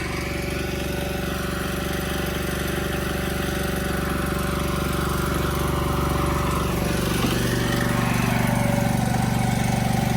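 Small engine of a portable welding machine or generator running steadily during stick welding on a steel well casing. About seven seconds in its note changes and gets a little louder.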